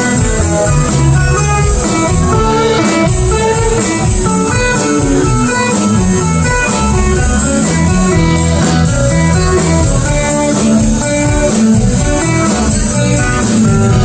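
Live band playing an instrumental passage with no singing: a guitar line over bass and a steady cymbal beat.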